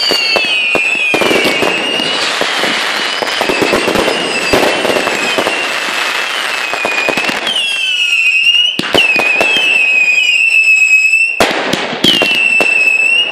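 Fireworks finale barrage: a dense run of bangs and crackling with several shrill whistling effects overlapping and wavering in pitch. For a few seconds after the middle, the crackle thins and the loud, steady whistles stand out.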